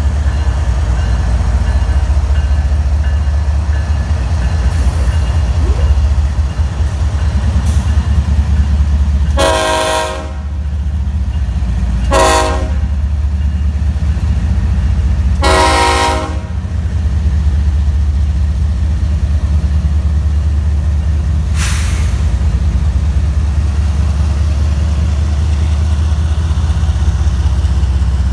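Florida East Coast freight train's GE ES44C4 diesel locomotives running with a steady low engine drone as the train rolls past. Three blasts of the locomotive horn come near the middle: long, short, long.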